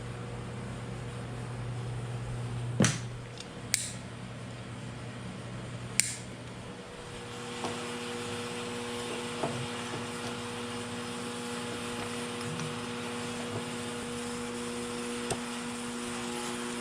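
Steady mechanical hum of a workshop appliance such as a fan, changing to a higher pitch about seven seconds in. Over it come three sharp metallic clicks in the first six seconds and a few light knocks afterward, from parts and tools being handled during hand assembly work.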